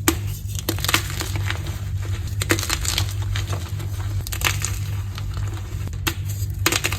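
Dyed gym chalk being crushed, with irregular crisp crunches and crackling snaps as the chalk crumbles, over a steady low hum.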